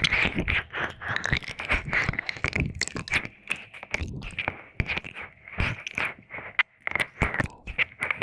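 Close-miked ASMR ear licking and wet mouth sounds: a quick, irregular run of small clicks, smacks and slurps with no pause.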